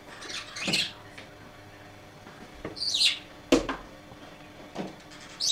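A bird calling: three short, high calls, each falling in pitch, about every two and a half seconds. A sharp knock comes about halfway through.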